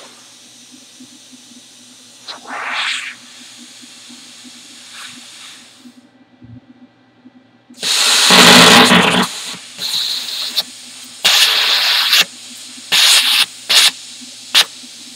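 Plasma cutter firing with a drag-tip torch: a steady low hiss, then a loud hissing burst of about a second and a half, followed by several short bursts that stop and start abruptly. The cut is not going right, and the arc keeps cutting out.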